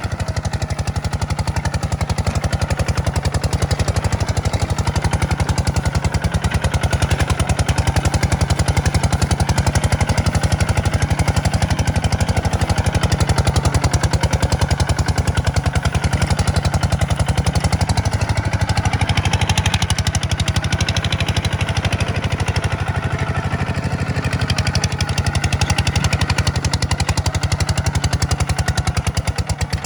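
Diesel tractor engine running steadily with a rapid, even beat.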